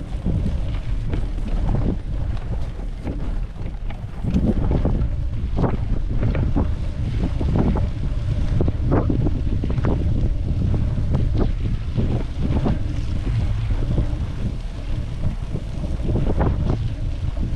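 Strong wind buffeting the microphone: a heavy low rumble with irregular gusty peaks.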